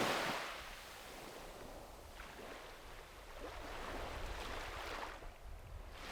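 Sea waves washing onto a beach: a breaking wash fades away in the first second, then a softer wave swells up and sinks back about four to five seconds in.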